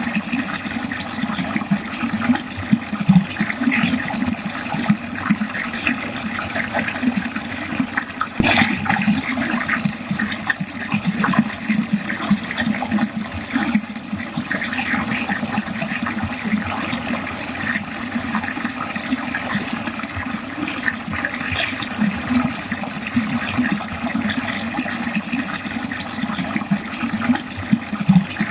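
Water pouring steadily into a drain, gurgling and splashing continuously, with a sharper splash about eight seconds in.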